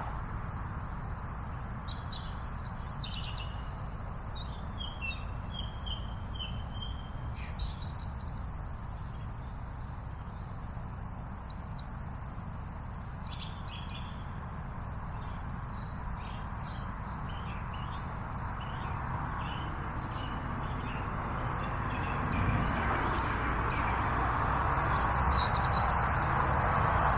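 Small songbird singing, with short high chirps and trills that come and go, over a steady low rushing noise that swells slightly near the end.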